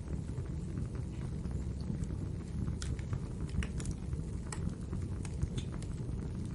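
Fireplace fire crackling: a steady low rumble of flame with irregular sharp pops and snaps, most of them bunched near the middle.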